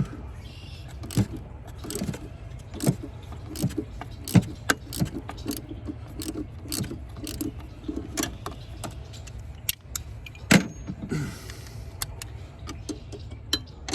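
Irregular metallic clicks and clinks of hand tools and loose parts as a stuck EGR valve is worked off a Ford F-150 engine, with one louder knock about ten and a half seconds in.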